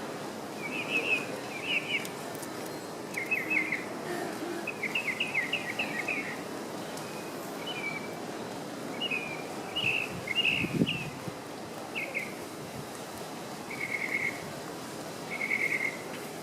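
Tropical mockingbird singing: a string of short, varied phrases, many made of quick repeated notes, with brief pauses between them.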